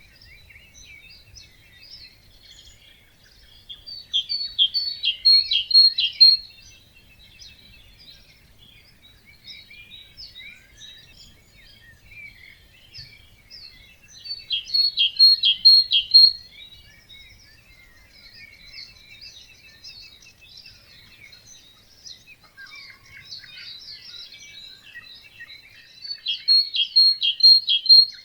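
Songbirds singing in a dawn chorus: one nearby bird repeats the same loud song three times, each a quick run of notes of about two and a half seconds ending in a string of high, even notes, over continuous softer twittering from many other birds.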